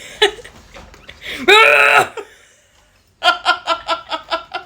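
A person makes a short, loud, made-up vocal noise about a second and a half in, its pitch arching up and then down. Near the end comes a burst of laughter in quick, even ha-ha pulses.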